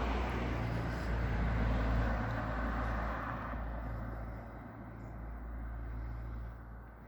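A car passing by, its road noise loud at first and fading away over the last few seconds.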